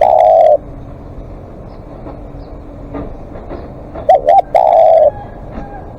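Spotted dove cooing: the long last note of one call ends about half a second in, and about four seconds in comes a full phrase of two short coos and a longer, drawn-out coo.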